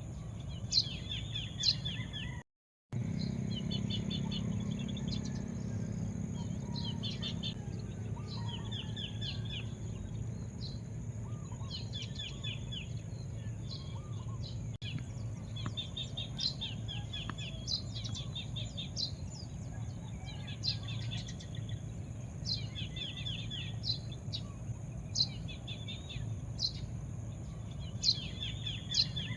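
Small birds chirping, with quick repeated chirps and trills throughout, over a steady high hiss and a low rumble. The sound drops out briefly about two and a half seconds in.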